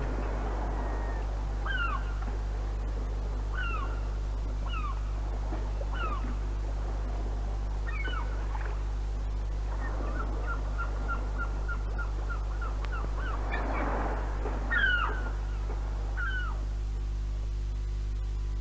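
Birds calling on an old tape recording: short downward-swooping calls every second or two, with a quick run of short repeated notes in the middle. A steady low electrical hum runs under the calls.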